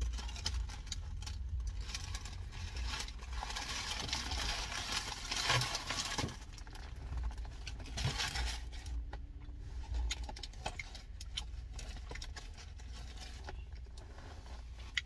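Crunching and small rustling clicks from eating crispy cinnamon twists, with a denser spell of crunching a few seconds in. A steady low rumble runs underneath.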